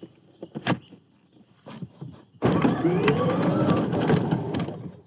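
Electric ride-on truck's motor and drive whirring for about two seconds as it moves off, its pitch rising and falling, after a couple of short clicks.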